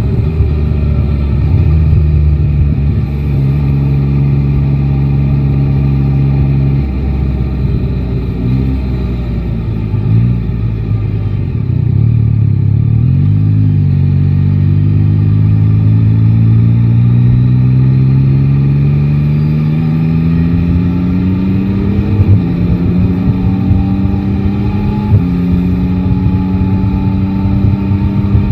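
Yamaha Tracer 9 GT's three-cylinder engine under way. It holds a steady note for the first several seconds, then falls and rises unevenly. After that it pulls with a long rising pitch, with sudden pitch changes at gear shifts in the last several seconds.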